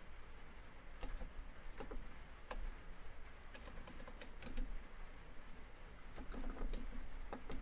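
Typing on a laptop keyboard, with keystrokes in irregular clusters and short pauses between them, over steady rain on a tin roof.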